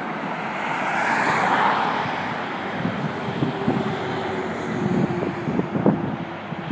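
Motor vehicle noise. A swell about a second in like a vehicle passing, then a steady engine hum with a few low knocks.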